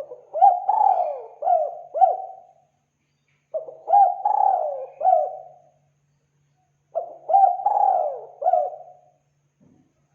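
Spotted dove cooing: three phrases of several quick rolling coos each, about three and a half seconds apart. It is a lure call recording for drawing in doves.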